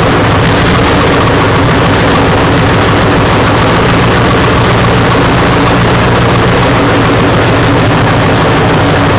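Engine idling steadily close by, loud and even with no change in speed, being run to warm up after starting.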